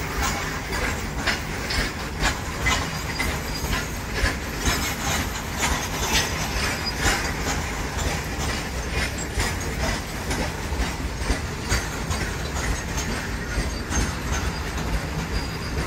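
Indian Railways freight train of loaded open-top BOXN wagons rolling past at speed: a steady rumble and rattle of wheels on rail, broken by frequent sharp wheel clacks.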